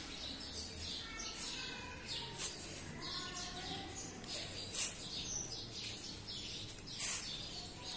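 Small birds chirping repeatedly in short high calls, with a few louder sharp sounds about two, five and seven seconds in.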